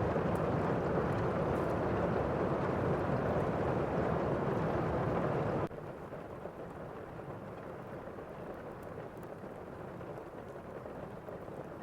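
Thunderstorm ambience: steady heavy rain with a deep rumble. About halfway through it cuts suddenly to a quieter, duller rain, and faint crackling ticks sit over it.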